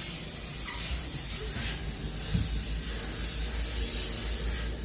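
Large duct-cleaning vacuum running: a steady rushing hiss of air over a low rumble.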